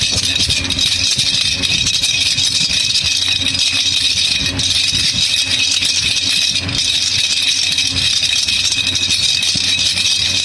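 Baby rattle (jhunjhuna) shaken continuously: a dense, even rattling with no pauses.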